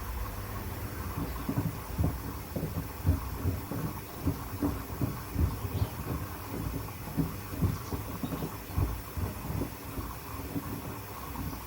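Pieces of wood thumping irregularly inside a Hoover washing machine's drum as it turns, several knocks a second over the machine's steady hum. The knocks start about a second in and fade near the end.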